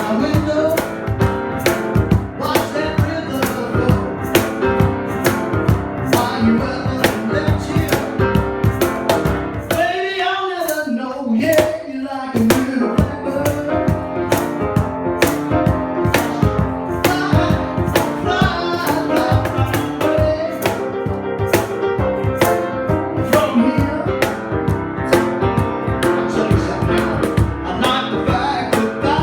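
A live band playing a jazz-blues song with a steady beat. About ten seconds in, the bass drops out briefly while a note bends up and down.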